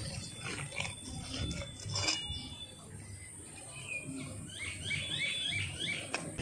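Small birds calling in the background: a few thin whistles around two seconds in, then a quick run of short chirps, about five a second, near the end, over a low rumble and a few clicks.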